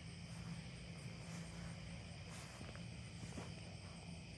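Night insects, crickets among them, calling in a steady, high-pitched chorus, with a low steady hum beneath and a few faint clicks.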